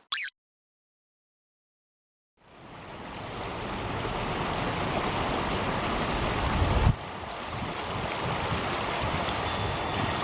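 A brief rising whistle at the very start, then about two seconds of silence. After that, a steady outdoor rushing noise fades in. A low rumble swells in it and cuts off abruptly a little past the middle.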